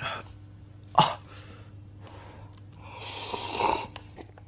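A person breathing hard while eating hot noodles: a short, sharp sniff-like burst about a second in, then a longer breathy rush near the end.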